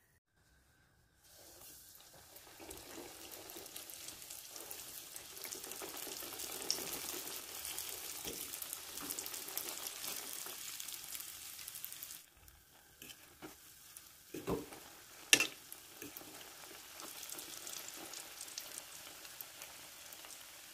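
Donut rings deep-frying in hot oil in a stainless steel pan: a steady sizzle that starts about a second in and dips briefly past the middle. Two sharp knocks come soon after the dip and are the loudest sounds, then the sizzle goes on.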